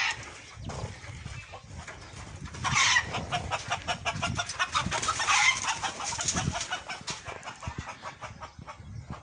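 A flock of chickens clucking and squawking, with rapid clucking throughout and louder squawks about three and five and a half seconds in.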